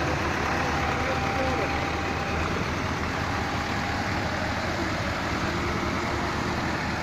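Tractor engines running steadily under load, with faint shouts from onlookers.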